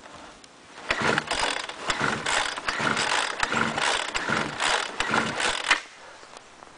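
Homelite leaf blower's two-stroke engine being pull-started, a fast series of recoil-starter pulls for about five seconds without the engine catching: a cold start in 0°F weather.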